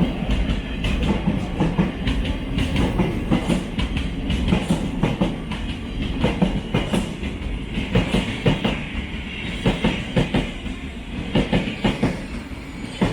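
Thameslink Class 700 electric train rolling along the track, with a steady rumble and a run of sharp clicks as its wheels pass over the rail joints. The sound drops away near the end.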